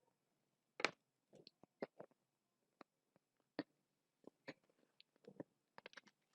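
Faint chewing and lip smacks of a person eating: a scattering of short, soft wet mouth clicks.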